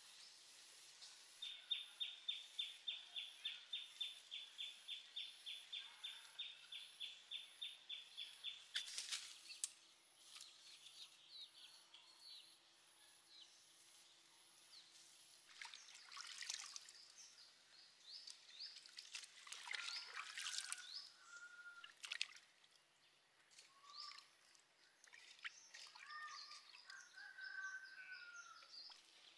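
Faint outdoor ambience in which a bird repeats a short, high note about four times a second for some seven seconds, followed by scattered rustles and clicks and a few short whistled calls.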